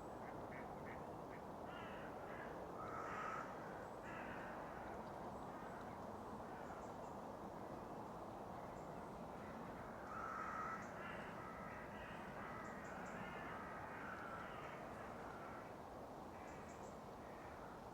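Wild birds calling, with a cluster of calls about three seconds in and a longer run of calls from about ten to fifteen seconds in, a few short high chips among them, over a faint steady outdoor hiss.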